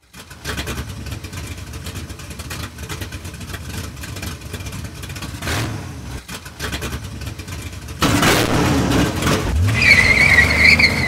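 Car engine running, louder from about eight seconds in, with a wavering high-pitched squeal near the end.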